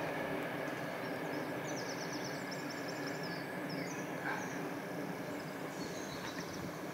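Steady rumble of a steam-hauled train, the A4 Sir Nigel Gresley and its carriages, running away into the distance and slowly fading. A bird twitters faintly over it for a couple of seconds in the middle.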